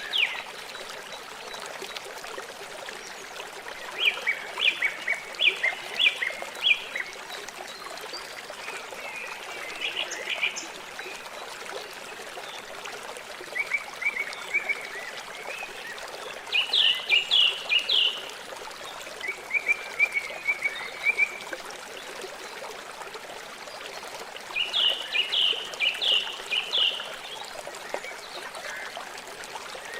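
River water flowing steadily, with a songbird singing short, quick series of high chirps every few seconds.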